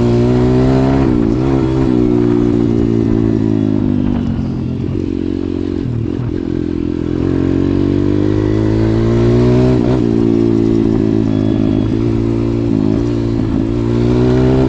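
140cc pit bike's single-cylinder four-stroke engine running while riding, its revs rising and falling with the throttle: easing off for a few seconds in the middle, picking up again, then dipping briefly a couple of times near the end.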